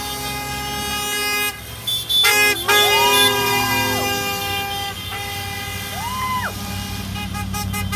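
Truck air horns blaring in long, steady blasts as trucks pass, with a siren whooping up and falling away twice, and engine rumble underneath.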